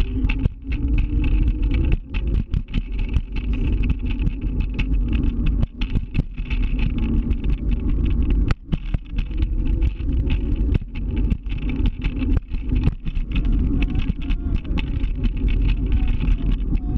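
Scooter under way: a steady rumble of riding noise with a faint, slightly wavering motor tone and many brief dips in level.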